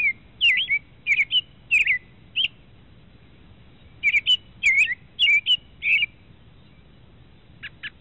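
A songbird singing: two bursts of quick, slurred whistled chirps, then a run of short rapid notes near the end, over a faint low background hiss.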